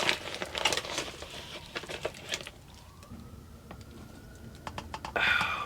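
Liquid poured from a torn plastic bag into a measuring cup, the pitch of the pour rising slowly as the cup fills, after some light clicks and bag handling.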